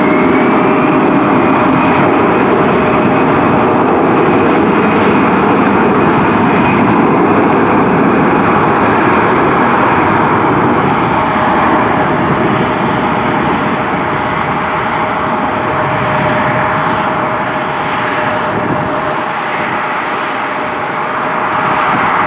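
Airliner jet engines running loud and steady, a dense roar with a steady whine through it, easing off a little in the second half.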